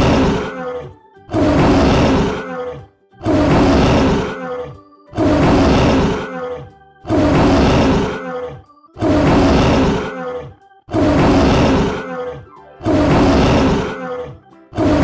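Tiger roaring again and again, one roar about every two seconds, each the same roar repeated.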